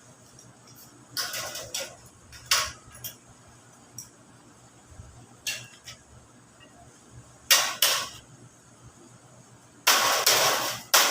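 Plain sheet metal being worked by hand: a handful of separate sharp metallic knocks and clanks, then a dense run of loud rattling clatter near the end.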